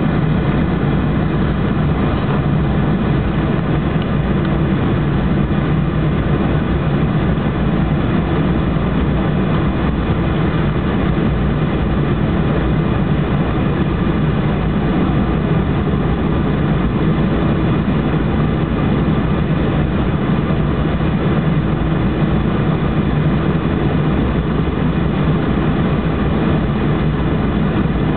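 Boeing 737-800's CFM56 jet engines heard from inside the cabin, a loud, steady low rumble with no rise or fall.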